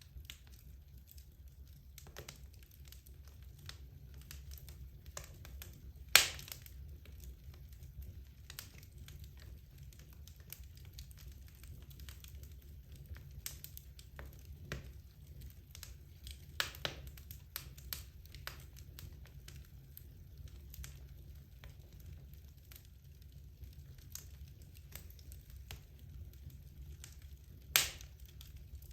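Wood logs burning in a fireplace: scattered soft crackles over a low steady rumble, with a loud sharp pop about six seconds in and another near the end.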